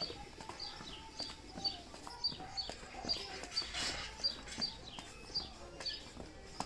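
A small songbird chirping over and over, short high notes that fall in pitch, about two or three a second.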